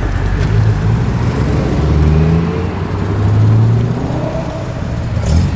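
Performance car engine accelerating as it drives away, its deep drone climbing in pitch twice.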